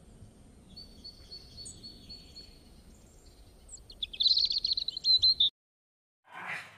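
Birds chirping: a thin run of high notes, then a louder burst of rapid chirps about four seconds in, which cuts off suddenly a second and a half later.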